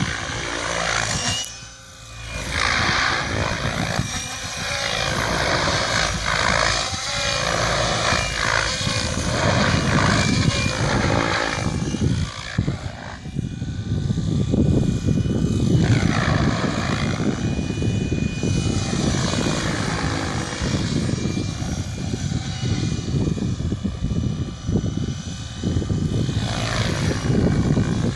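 Mikado Logo 600 electric radio-controlled helicopter in flight: rotor blades and motor whine, their pitch rising and falling over and over as it flies, with a short dip in level about two seconds in.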